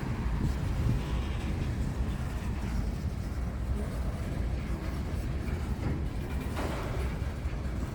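Freight train rolling past, a steady low rumble of the cars on the rails.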